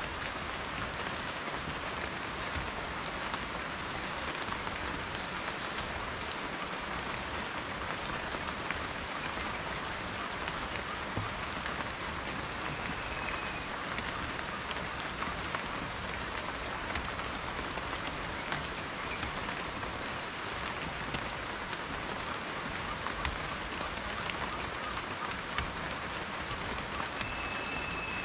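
Steady rain falling, with individual raindrops ticking through the even hiss.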